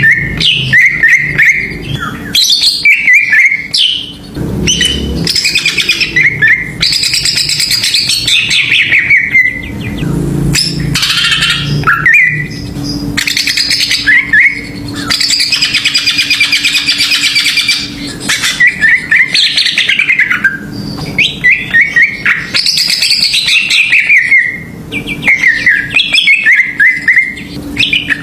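Cucak ijo (green leafbird) singing loudly in a fast, varied song: quick rising and falling chirped phrases and buzzy trills, repeated one after another with short breaks.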